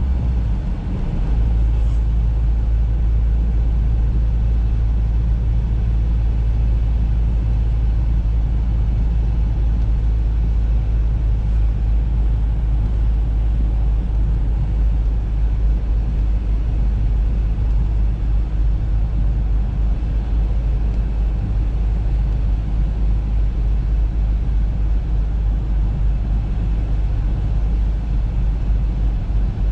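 Audi A3 on the move: a steady low rumble of engine and road noise, with a faint tick or two.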